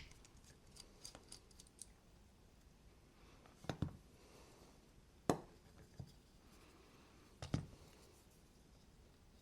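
A plastic pry bar working a knife's handle scale off its press-fit standoffs: faint small ticks and scraping, then three sharp knocks or snaps a second or two apart as the parts give and are handled.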